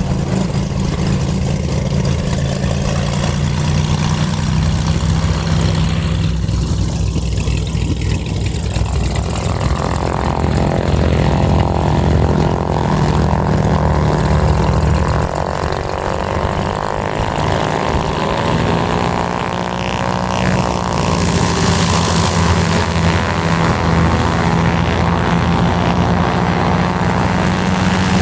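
Piston-engined propeller aircraft running steadily and loudly. About ten seconds in a second, higher-pitched engine tone joins, its pitch dipping and rising again around twenty seconds in.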